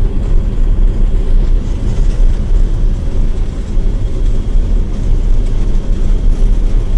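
John Deere 9700 combine running steadily while harvesting wheat: a continuous low drone of engine and threshing machinery.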